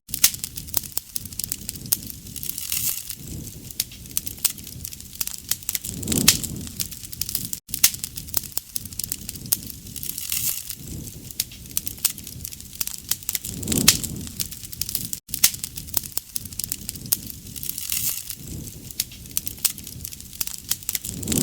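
Campfire crackling, with dense sharp pops and snaps over a soft flame rustle that swells about every four seconds.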